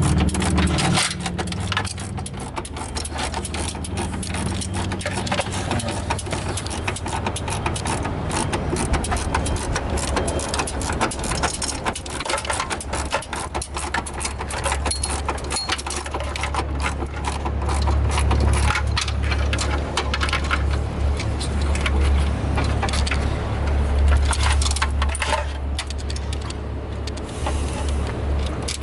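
Hand wrenches working bolts on an engine: repeated metal clicks, clinks and tool rattle. Under them runs a steady low rumble that grows louder in the second half.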